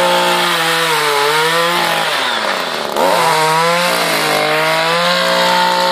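Two-stroke chainsaw revved at full throttle, its pitch dipping briefly about a second in, then easing off at about two seconds. It is revved up again at about three seconds and held high.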